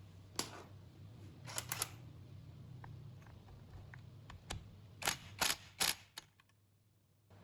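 A series of sharp clicks and knocks: one, then three close together, a few light ticks, then three louder ones about five seconds in. A low steady hum lies underneath.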